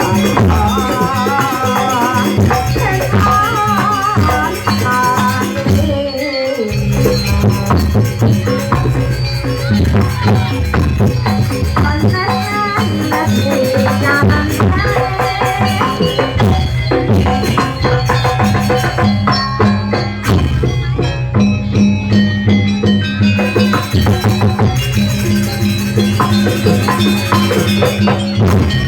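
Live East Javanese jaranan music played without a break: a steady low pulse under a busy rattling jingle and a wavering melodic line.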